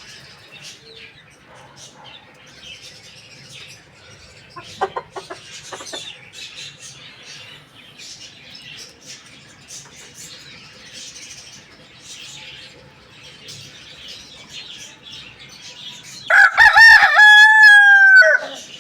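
A rooster crows once, loudly, near the end: a long held call that drops in pitch as it ends. Before it, small birds chirp faintly and a chicken gives a few short clucks about five seconds in.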